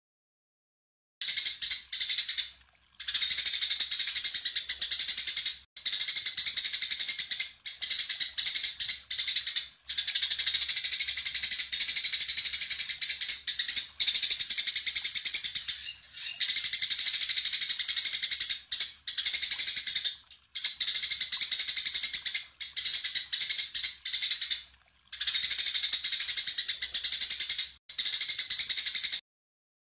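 Songbird song: dense, high-pitched rapid chirping and trilling in long bouts separated by short breaks, stopping just before the end.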